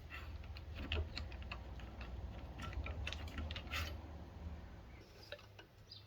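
Scattered light clicks and taps of small metal parts and hand tools being handled while parts are taken off an old minibike, over a low handling rumble that eases off after about five seconds.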